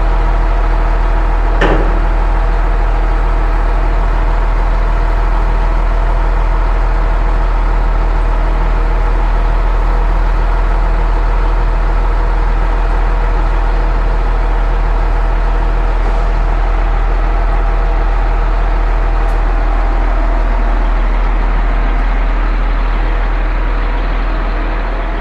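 Concrete pump's engine running steadily under load, with one sharp metallic knock about two seconds in. The sound eases off slightly near the end.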